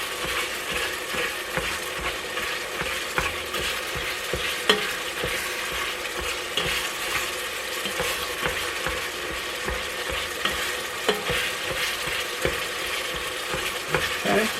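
Ground beef sizzling as it browns in an electric kettle, with frequent short clicks and scrapes of a meat-chopper tool breaking the nearly cooked meat up against the pot.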